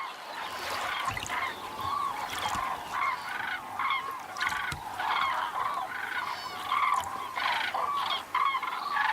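A flock of common cranes calling: many short trumpeting calls overlapping and following one another several times a second.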